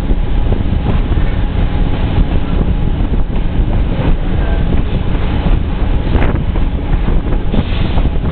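Passenger train rolling along the track, heard from an open car window: a steady rumble of the wheels on the rails with a few sharp clicks, and wind buffeting the microphone.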